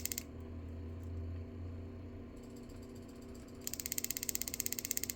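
Rapid, evenly spaced clicking of a jeweler's torch spark igniter firing over and over without the flame catching. The clicking stops just after the start and begins again about three and a half seconds in, over a faint steady hum.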